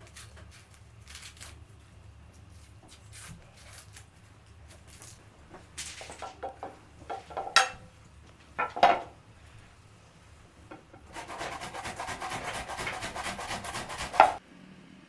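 Hand-work sounds of rubbing and scraping, with scattered light clicks and two sharp knocks that ring briefly in the middle. Near the end comes a rapid, rasping scrape lasting about three seconds that stops suddenly.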